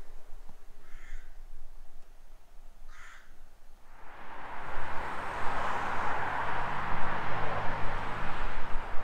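Two short, harsh bird calls about two seconds apart. From about four seconds in, a louder, steady rushing noise takes over.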